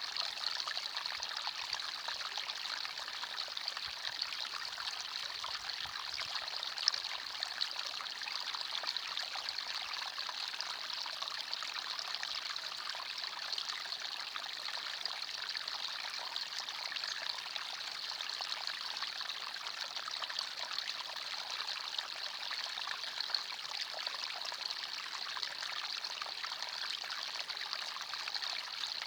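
Small forest stream running and trickling over stones, a steady babble of water.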